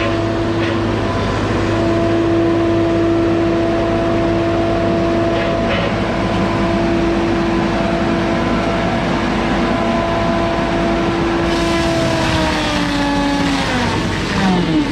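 Two-stroke chainsaw held at high revs with a steady pitch, then the revs fall away about two seconds before the end as the throttle is released.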